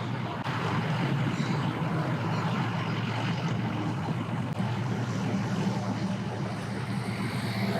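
An engine running steadily at low speed, a low even hum with no clear rise or fall.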